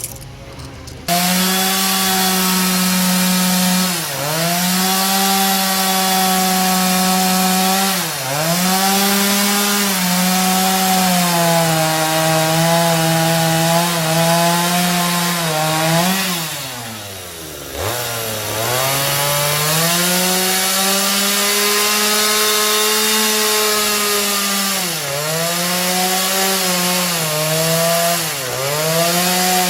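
A power tool cutting wood. Its motor starts about a second in and runs at a steady high speed, and the pitch sags each time the cutter bites into the timber. Around the middle it bogs down deeply before recovering.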